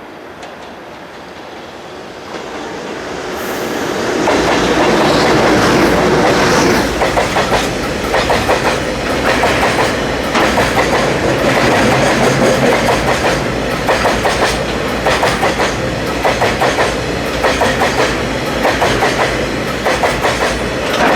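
Freight train passing close by: the approach swells up over a few seconds, then a long line of wagons runs past with the wheels clicking over rail joints in regular clusters, about one group a second.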